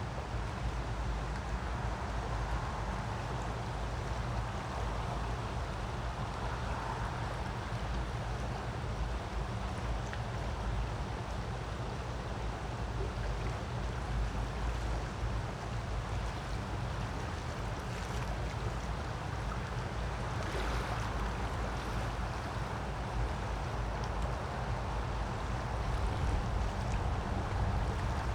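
A creek's flowing water: a steady rush with a deep rumble underneath, swelling slightly near the end.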